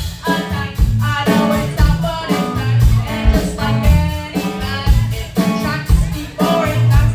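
Rock band playing live: electric guitar, bass and drums with a sung vocal line over a steady beat.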